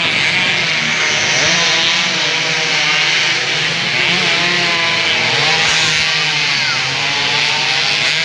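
Several two-stroke underbone race motorcycles running and revving together, a buzzing whine whose pitches rise and fall across one another.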